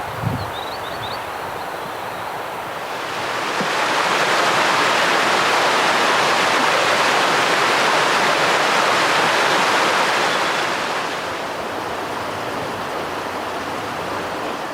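Rushing water of a snow-fed mountain stream or waterfall, a steady hiss that swells louder for several seconds and then eases back. A few faint bird chirps come near the start.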